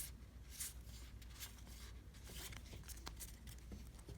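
Faint, scattered rustles and soft flicks of 2019 Topps Pro Debut baseball cards being handled, over a low steady room hum.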